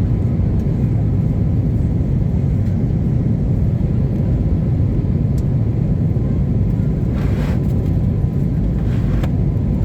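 Steady low rumble of an Airbus A321neo's engines and rushing air, heard inside the passenger cabin during the climb after takeoff, with a brief hiss about seven seconds in.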